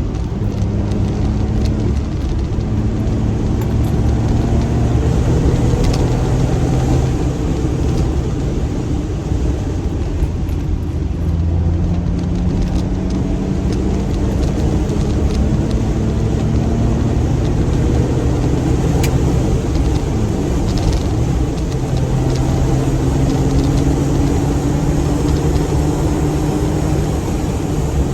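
Brabus smart fortwo's turbocharged three-cylinder engine pulling on the road, its pitch climbing slowly through the gears, dropping at an upshift about eleven seconds in and again about twenty-one seconds in, with tyre and road noise underneath.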